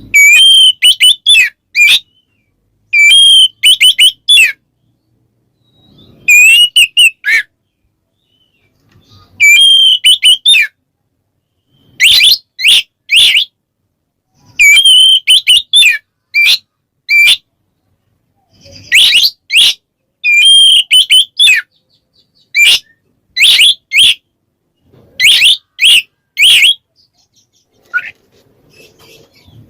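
Oriental magpie-robin (kacer) singing loud, clear 'ngeplong' phrases: quick runs of short whistled notes, each phrase a second or two long, repeated after pauses of about a second. It is a male's challenge song, calling out a rival.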